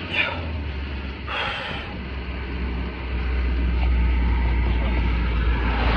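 Steady low rumble of an idling vehicle engine, with two sharp, heavy breaths about a quarter second and a second and a half in.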